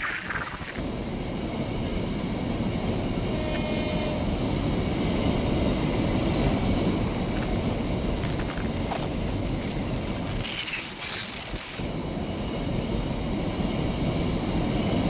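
A passing train: a steady rumble of wheels on the rails, with a brief dip about eleven seconds in.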